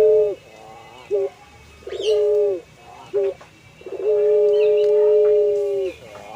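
Puter pelung dove cooing: short coos alternate with long held ones. The longest coo starts about four seconds in, lasts about two seconds and drops in pitch at the end.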